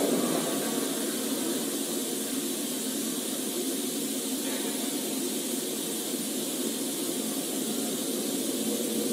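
Steady vehicle noise picked up inside a patrol car: an even, unbroken hiss of road and engine sound with no clear events.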